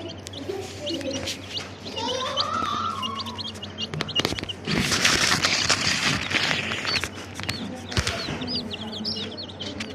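Many baby chicks peeping: a steady run of short, high-pitched cheeps overlapping, with a stretch of rustling about five seconds in and a few sharp taps.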